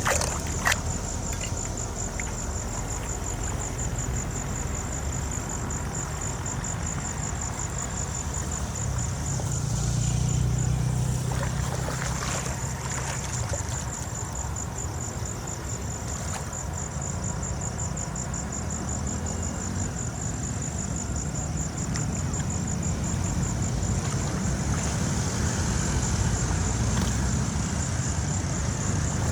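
Low, steady engine rumble, swelling briefly about ten seconds in, with insects trilling in an even, rapid pulse.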